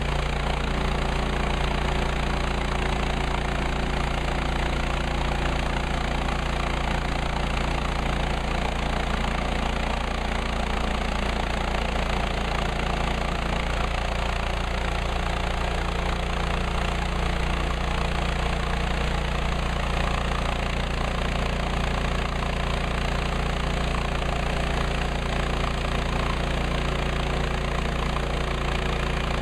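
Petrol engine of a Woodlands 130 Max portable bandsaw sawmill running steadily at an even pitch.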